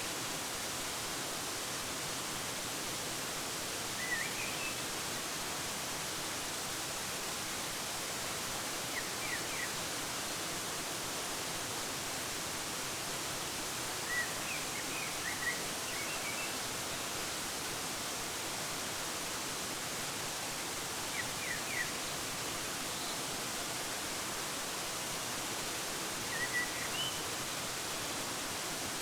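Waterfall rushing steadily, with small groups of brief high bird chirps every few seconds.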